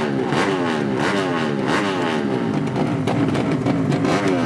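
200cc drag-race motorcycle engine revved in repeated quick throttle blips, the pitch dropping after each one.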